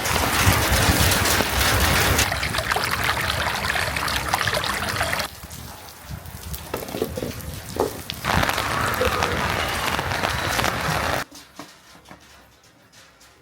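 Steady rain noise, in short clips cut together: it drops sharply about five seconds in, returns about three seconds later, and falls away again near the end.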